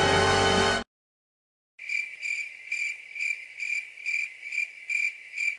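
Music cuts off about a second in. After a short silence comes the cricket-chirping sound effect used in memes for awkward silence: a high steady chirp repeating two to three times a second.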